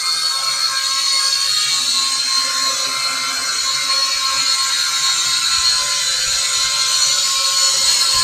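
WLtoys Q222 toy quadcopter's motors and propellers whining steadily in a hover, several high pitches held at once.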